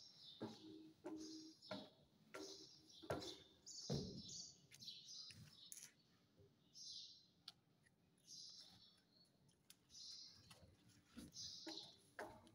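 Faint birds chirping in short high calls every second or two, with scattered taps and knocks, the loudest a few seconds in.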